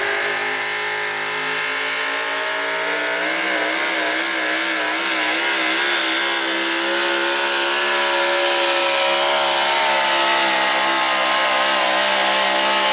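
Modified pulling truck's engine running at high revs under full load as it pulls the sled down the track, its pitch climbing slowly and wavering for a couple of seconds early in the run.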